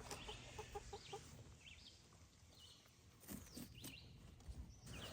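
Faint, soft clucking of chickens foraging, with a quick run of short clucks in the first second and a couple of light knocks near the middle.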